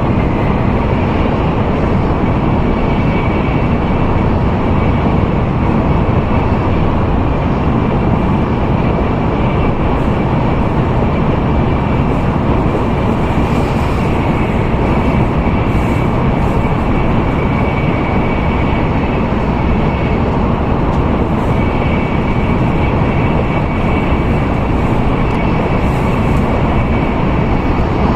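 Steady running noise of an N700A Tokaido Shinkansen train at speed, heard inside the passenger cabin: a dense, even rumble with a faint high whine that fades in and out.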